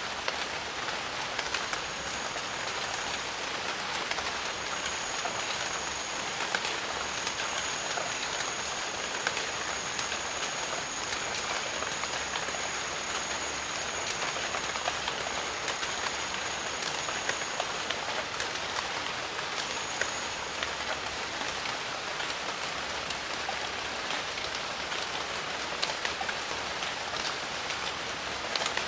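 Steady rain falling, with many separate drop hits standing out from the even wash. A thin, high, steady tone runs through most of the first twenty seconds, breaking off briefly about two-thirds of the way through.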